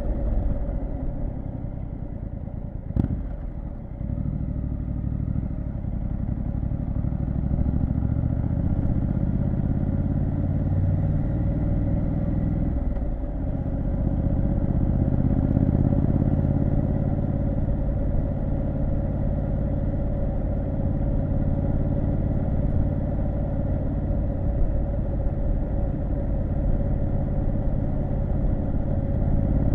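Triumph Street Scrambler 900's 900 cc parallel-twin engine running under way. There is a sharp click about three seconds in, and the engine note briefly drops and picks up again there and about thirteen seconds in.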